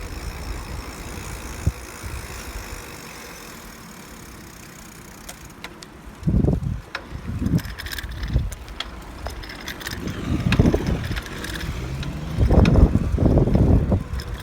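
Wind buffeting the microphone during a bicycle ride. A steady rush gives way, about six seconds in, to irregular low gusts, with scattered light clicks.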